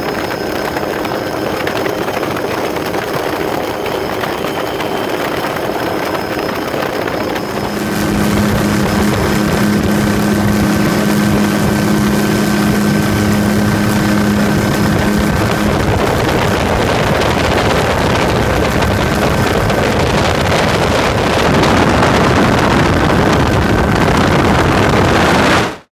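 Helicopter in flight, its rotor and engine making a loud, steady drone. It grows louder about eight seconds in, with a steady hum for several seconds after.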